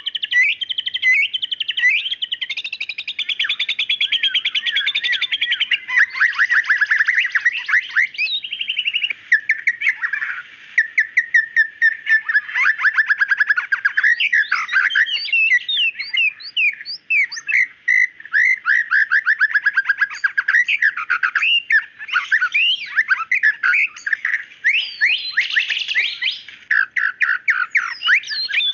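White-rumped shama (murai batu) singing without pause: fast runs of sharp, rapidly repeated notes mixed with rising and falling whistles.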